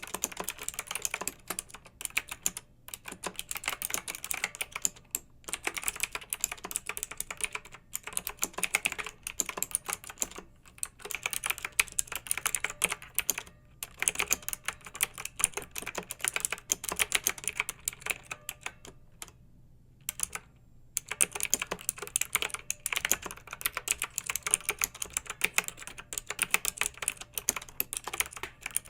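Clicky mechanical keyboard being typed on fast: dense runs of sharp keystrokes broken every few seconds by brief pauses, with one longer pause of about two seconds about two-thirds of the way through.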